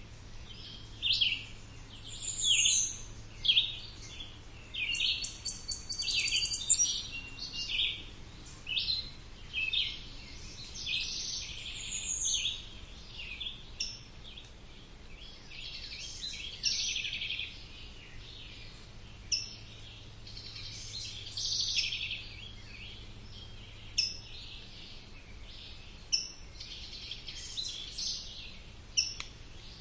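Several birds singing and chirping in a wood, short calls overlapping one after another, some rapid trills and high sharp chirps, over a faint steady low hum.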